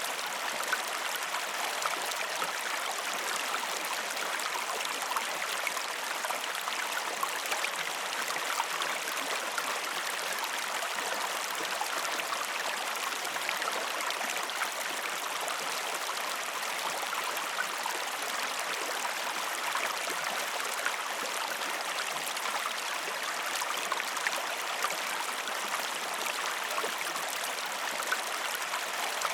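Steady flowing river water, an even rush with many small trickles and splashes throughout.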